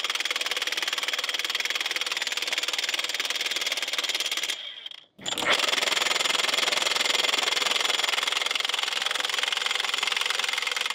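Steady, loud mechanical running noise that cuts out abruptly for about half a second near the middle, then carries on.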